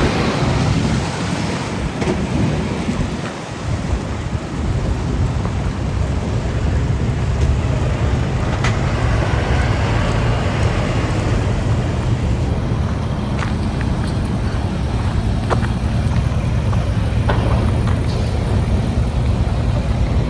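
A car running, with a steady low rumble that grows stronger about four seconds in and a few faint clicks over it.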